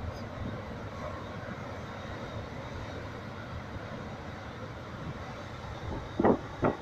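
Steady rumble of heavy surf from a rough sea with high waves, with two short loud thumps near the end.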